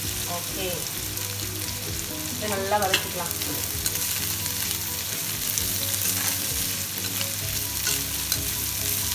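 Sliced shallots and chana dal sizzling in hot sesame oil in an iron kadai. A metal spatula stirs them, scraping and clicking against the pan again and again.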